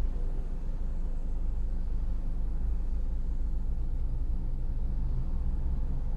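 BTS Skytrain electric train running, a steady low rumble with no speech over it.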